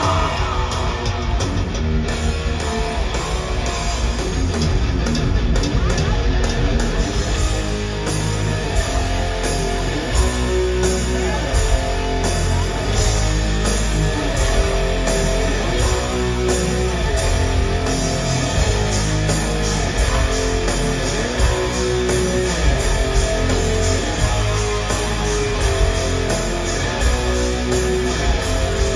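Heavy metal band playing an instrumental passage: distorted electric guitars over bass and drums with a steady, driving beat, no singing.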